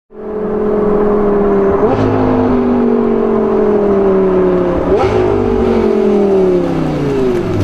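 Audi R8's V10 engine through a Capristo aftermarket exhaust, running loud at steady high revs, with two brief sharp blips about two and five seconds in, then its pitch sliding lower near the end.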